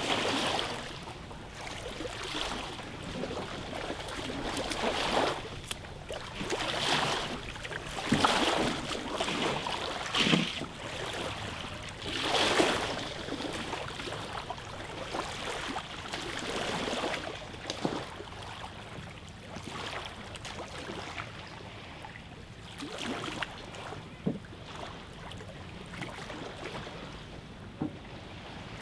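Canoe paddles dipping and pulling through lake water, the strokes swelling every second or two and growing fainter in the second half.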